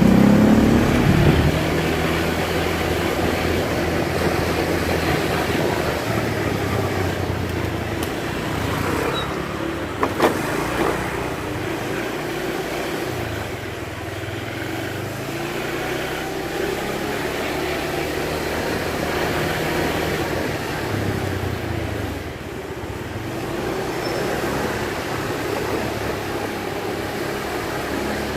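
A vehicle running along a road, its engine note rising and falling over steady road and wind noise, with a short knock about ten seconds in.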